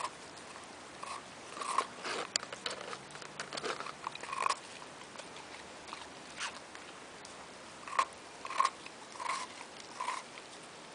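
Scottish terrier biting and crunching a frozen ice block, with irregular short crunches every half second to second.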